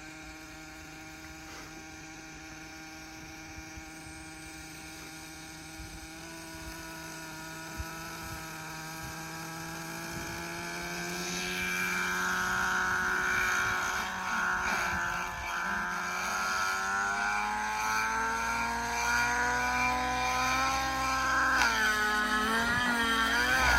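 Nitro glow engine of an XLPower Specter radio-controlled helicopter running. Its pitch rises slowly and it grows louder through the middle, then wavers up and down near the end.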